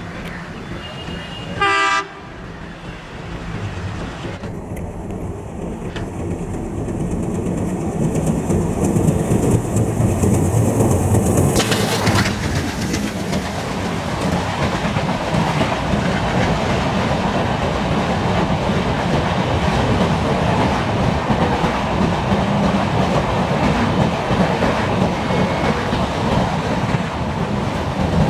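Duronto Express passenger train: a brief horn blast about two seconds in that cuts off suddenly, then the steady rumble and clatter of the coaches running past over the rails.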